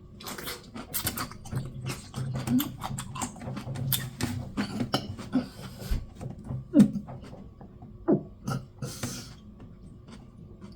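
Close-miked chewing of an extra-sour pickle: crunching with wet smacking and clicking mouth sounds, dense for the first several seconds, then sparser.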